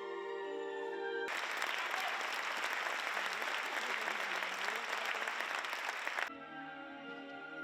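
An audience applauding for about five seconds, cutting in and out abruptly between stretches of violin-led string music.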